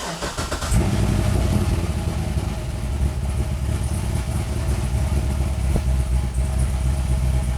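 Eight-cylinder car engine running at a steady idle just after starting, getting louder about a second in. The engine has a misfire on cylinder 1, which the scan tool's misfire count points to.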